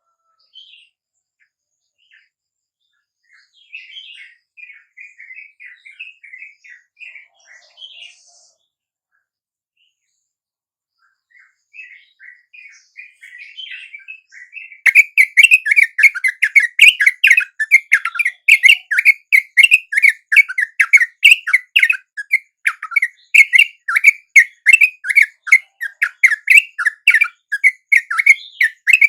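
Chattering calls of yellow-vented bulbuls (trucuk). The calls are faint and broken at first, then from about halfway turn into a loud, fast, continuous run of chirps, several notes a second.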